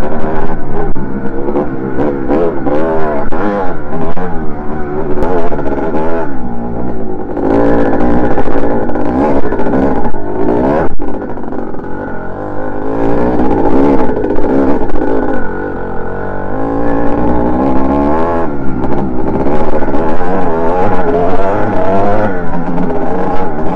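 Dirt bike engine revving up and down repeatedly, the pitch climbing and dropping over and over as it is ridden.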